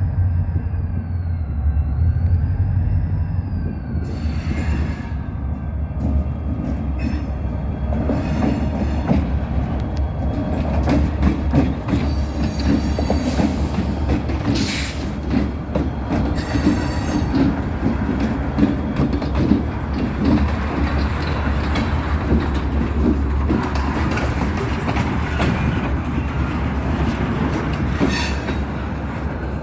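Short local freight train rolling past a crossing: a steady low rumble, with wheels clattering over the rails and brief high-pitched wheel squeals.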